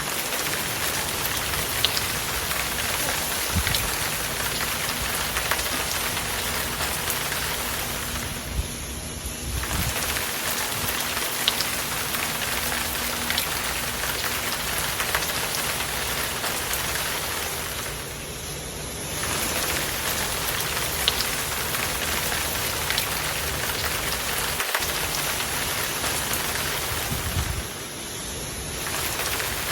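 Heavy rain falling steadily: a dense hiss of rain with scattered sharper drop impacts. It dips briefly three times, about every nine to ten seconds.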